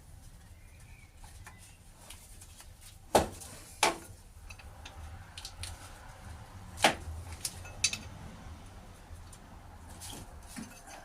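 Hand tools and metal engine parts clinking and knocking, a handful of sharp separate strikes with pauses between, over a low steady background rumble.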